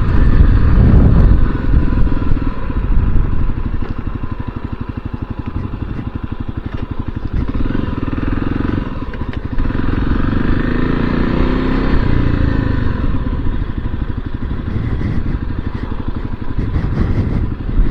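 Motorcycle engine slowing to a low-speed run with a steady, rapid exhaust pulse; wind noise on the microphone is heavy for the first couple of seconds, then drops away as the bike slows.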